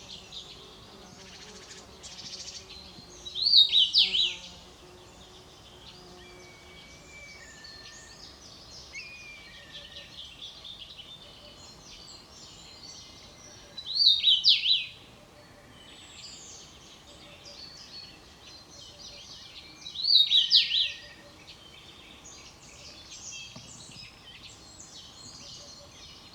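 A songbird singing a loud phrase of about a second, repeated three times several seconds apart, over a steady background chorus of other birds' chirps and calls.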